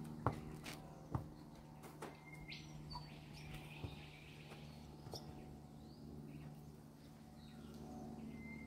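Birds chirping now and then, with a few sharp knocks in the first couple of seconds, over a faint steady low hum.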